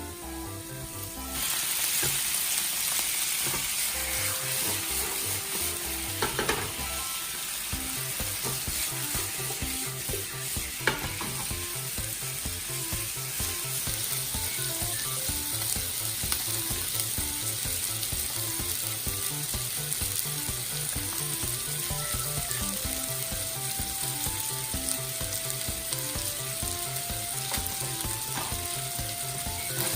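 Chicken drumettes frying in a hot pan, a steady sizzle that starts suddenly about a second and a half in.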